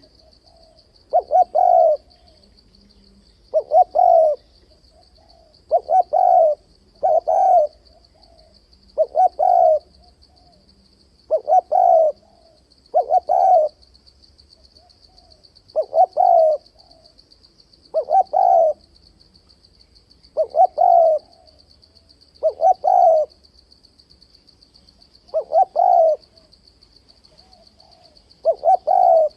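Spotted dove cooing over and over: short low coo phrases about every two seconds, some coming in quick pairs.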